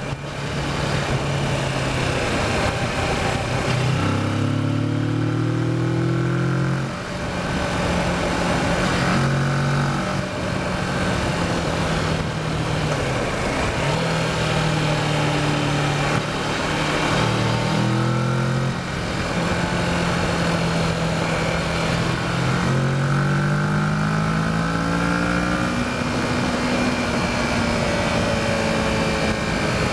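Kawasaki Versys motorcycle engine heard from the bike while cornering. It revs up repeatedly, its pitch climbing and then falling back between corners, over steady wind rush.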